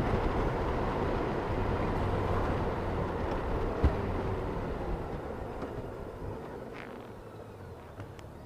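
Honda Gold Wing motorcycle riding with wind rush over the helmet and a low engine hum, both fading steadily as the bike slows down. There is a single knock about four seconds in.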